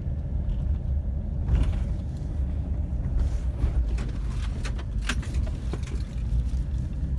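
Pickup truck running, a steady low rumble, with a few light clicks and rattles over it.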